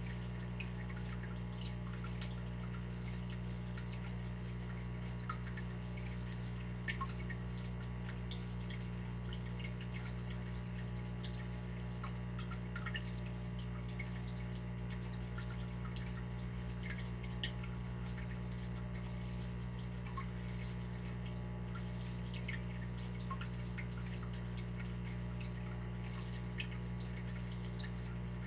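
Water dripping: small drops plinking at irregular intervals over a steady low hum.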